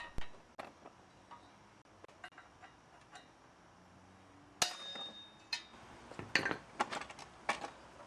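Hammer striking steel to drive a rusted hinge pin out of a folding bike's frame hinge. There are scattered light taps at first, then louder blows from about halfway, one with a clear metallic ring.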